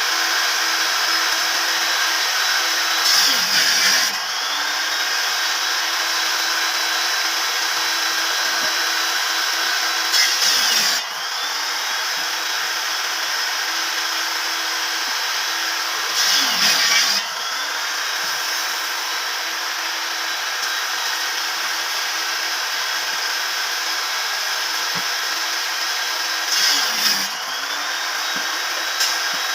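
An electric woodworking power tool running steadily, its motor dipping in pitch with a louder rasp four times as it bites into wood and then spinning back up.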